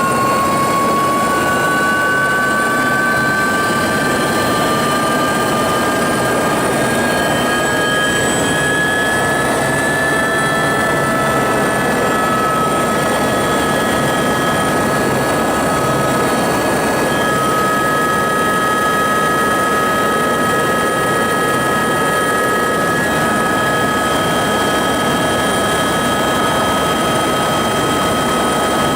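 Helicopter in flight heard from on board: loud, steady rotor and engine noise with a high turbine whine that rises slightly in pitch over the first ten seconds or so, then holds steady.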